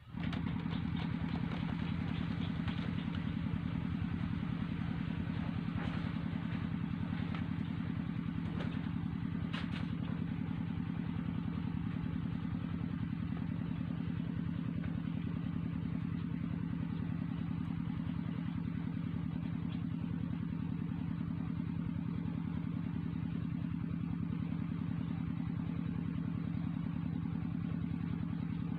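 A small engine running steadily, coming in abruptly just after the start and holding an even pitch throughout.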